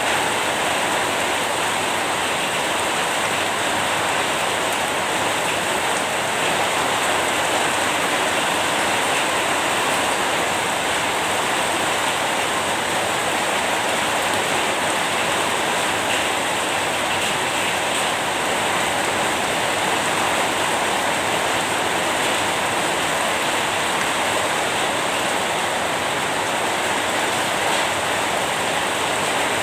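Rain falling steadily, an even hiss with no distinct drops or pauses.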